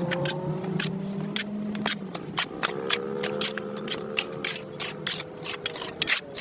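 Rapid, irregular scraping and scratching strokes on a hard surface, typical of dirt being scraped off a sidewalk, over a steady low hum of several held tones.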